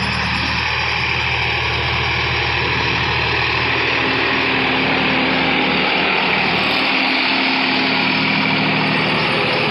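Diesel engine of a Sonalika DI 50 HP RX tractor running steadily.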